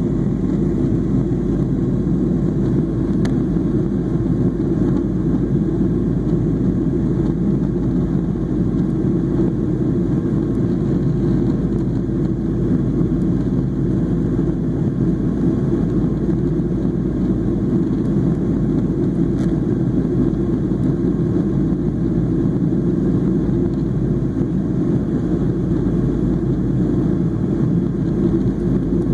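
Steady low rumble of a Boeing 737-800 in flight, heard from inside the cabin: engine and airflow noise, unchanging throughout.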